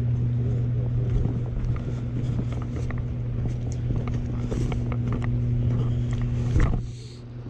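A steady low hum, like a motor or machine running, under small clicks and rustling handling noise. About six and a half seconds in there is a sharp knock, and the hum drops much quieter.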